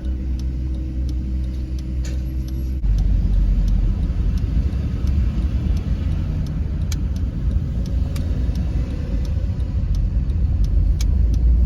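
A Honda Freed car heard from inside the cabin while driving: a steady low hum at first, then about three seconds in it jumps to a louder low rumble of engine and road noise.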